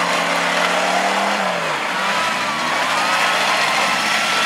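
Demolition derby cars' engines running and revving in the arena, one engine's note holding and then dropping about a second and a half in, with other engines rising and falling.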